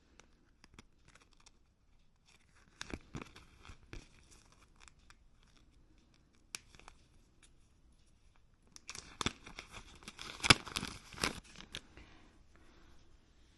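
Hands handling small fork parts: scattered light clicks and two spells of crinkly rustling, the longer and louder one about nine seconds in, as packaging or paper is handled.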